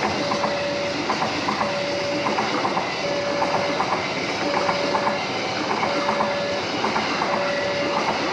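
Train passing with the clickety-clack of its wheels over the rail joints. A level-crossing warning signal repeats a short two-part tone about once a second throughout.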